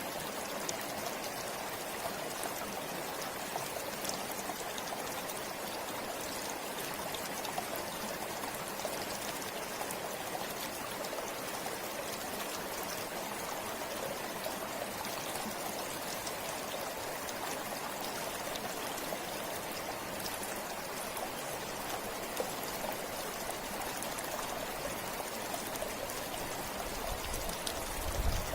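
River water flowing steadily over stones, an even rushing with fine trickling and splashing. A brief low rumble comes in near the end.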